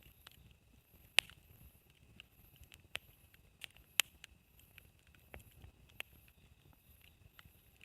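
Wood campfire crackling, with irregular sharp pops of burning firewood; the two loudest come about a second in and about four seconds in.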